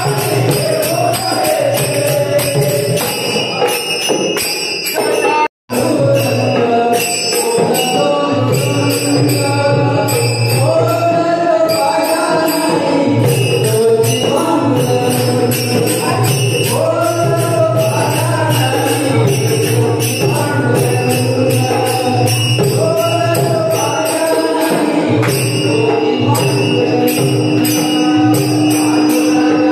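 Marathi devotional bhajan (abhang): a lead singer sings a melodic line over small hand cymbals striking a steady beat, with instrumental accompaniment. The sound cuts out for an instant about five and a half seconds in, and a steady held note joins in near the end.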